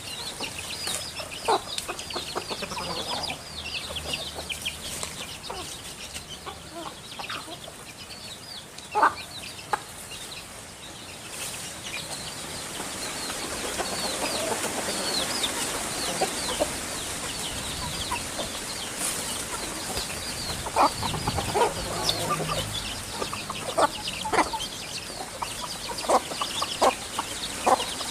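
Chickens clucking in short sharp notes, over a steady chatter of quick, high-pitched bird chirps; the clucks come more often in the last third.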